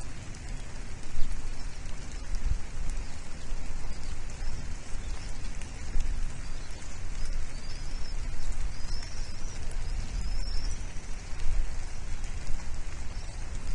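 Steady rushing outdoor noise with a heavy, fluctuating low rumble on the microphone. A few short, high bird chirps come about nine and ten seconds in.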